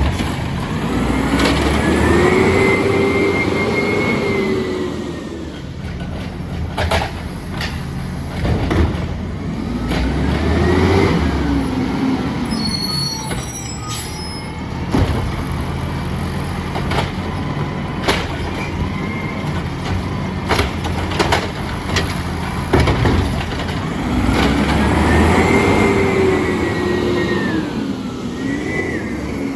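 Diesel engine of an Amrep N3 automated side-loader garbage truck revving up and back down three times as the arm and packer hydraulics work, running in between. Sharp knocks and clanks come between the revs.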